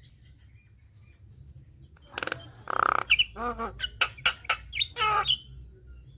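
Javan myna (jalak kebo) singing a quick, varied string of harsh squawks, short whistles and chatter, starting about two seconds in after a brief pause.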